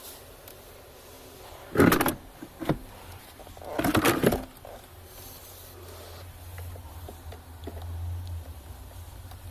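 Two short clattering knocks about two seconds apart with a small knock between them, from hands and tools handling parts during a car battery replacement. A steady low hum comes in about halfway through.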